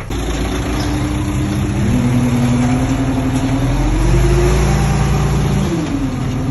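Diesel engine of a heavy earthmoving machine running hard, its pitch rising over the first few seconds, dipping about five and a half seconds in, then climbing again.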